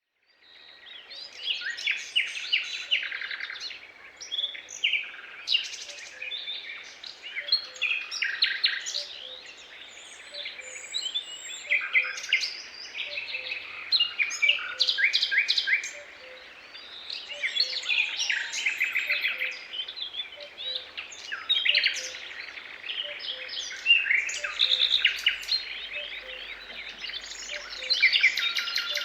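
Several songbirds singing in woodland daytime ambience, overlapping phrases of quick trills and whistles coming in waves every few seconds. A faint low note repeats steadily underneath.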